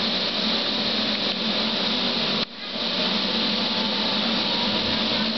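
Passenger train at the station platform, its machinery running with a steady whirring noise over a low hum. The sound drops out abruptly about halfway through and comes back within about half a second.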